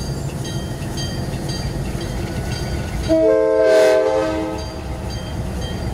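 Diesel locomotive's multi-chime air horn sounding one blast of about a second and a half, about three seconds in, over the low rumble of a passing train.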